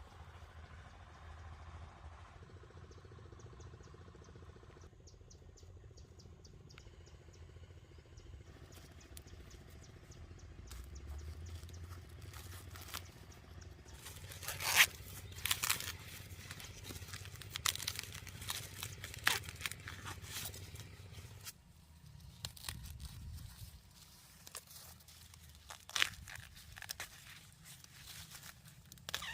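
Rustling and crunching, like plant material being handled, with sharp snaps and knocks that grow busier about halfway through, the loudest a little past halfway and again near the end.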